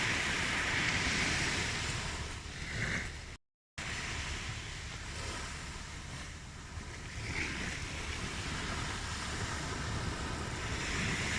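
Ocean waves washing on a shore: a steady surf hiss that swells and ebbs, louder at first, dipping in the middle and building again near the end. The sound cuts out completely for a fraction of a second about three and a half seconds in.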